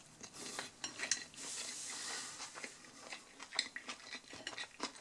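A person chewing a mouthful of chicken pizza close to the microphone: soft, irregular clicks and smacks of the mouth.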